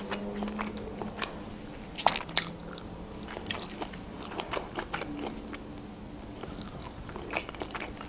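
A person chewing a mouthful of sushi roll, with crunches at an irregular pace; the sharpest crunches come about two seconds in and again about three and a half seconds in.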